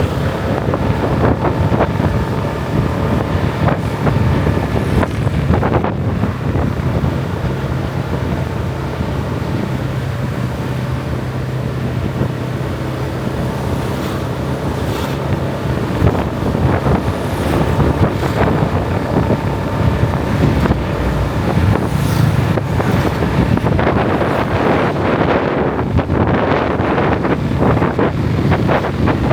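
Motorbike riding along a road: a steady low engine hum under wind rushing and buffeting over the microphone.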